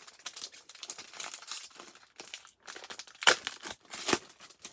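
Foil trading-card pack wrappers being torn open and crinkled by hand, an irregular run of crackles with two louder rips about three and four seconds in.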